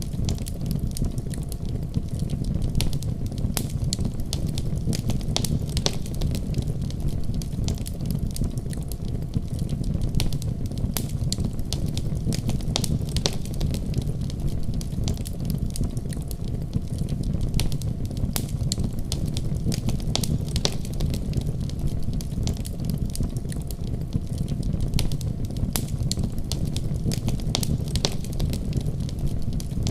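Fire crackling in a fireplace: frequent, irregular sharp snaps and pops over a steady low rumble of flames.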